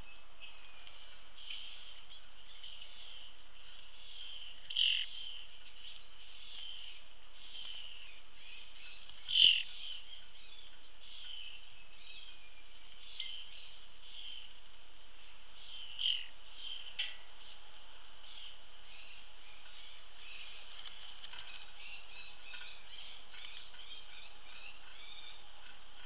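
Wild birds singing and calling: a steady high chorus of chirps, with a few louder sharp calls scattered through it, the loudest about nine and a half seconds in. Near the end comes a quicker run of repeated notes.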